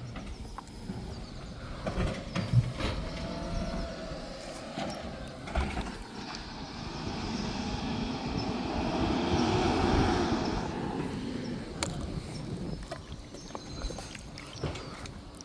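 Garbage truck at work: a few sharp clunks, then its running sound swells to a peak and eases off again.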